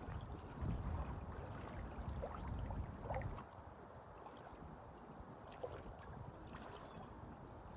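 Waves washing with wind. A low rumble swells in the first three seconds, then eases.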